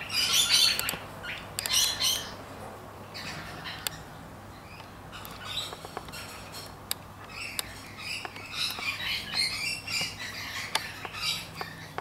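Harsh, squawking bird calls: two loud bursts in the first two seconds, scattered calls and sharp clicks through the middle, then a longer run of calls from about eight seconds in.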